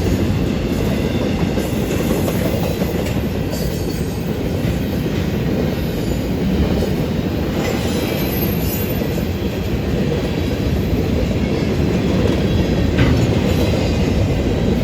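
Union Pacific freight train's cars rolling past, a steady rumble of steel wheels on rail with some light clatter.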